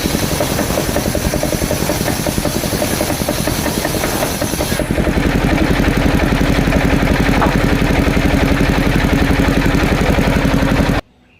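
Engine of a mobile circular sawmill running steadily with a fast, even pulse. About five seconds in the upper hiss drops away and the engine note settles lower and smoother; near the end the sound cuts off abruptly.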